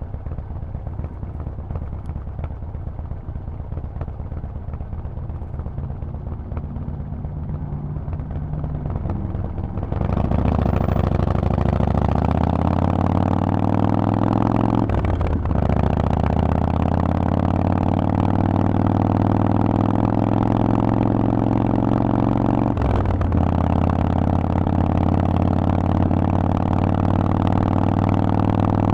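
Harley-Davidson Forty-Eight's 1200 cc V-twin through a Vance & Hines exhaust, running at low revs for about ten seconds, then opened up and accelerating with a rising note. It shifts up twice, with a short dip in sound each time, and settles into a steady, louder run.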